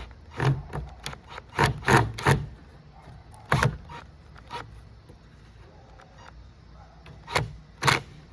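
A series of short knocks and scrapes, about eight at uneven intervals, from parts of a homemade filter frame being handled and fitted together.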